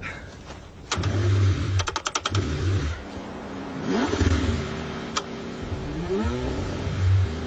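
Car engine being cranked by its starter in extreme cold, struggling to start. It comes in several bursts, with a quick run of clicks about two seconds in.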